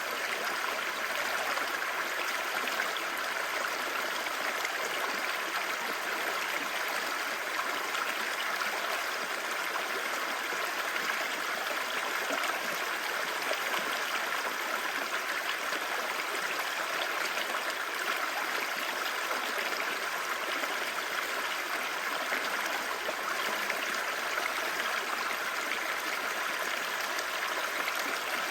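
Clear mountain stream babbling steadily over rocks, an even rushing and trickling of water.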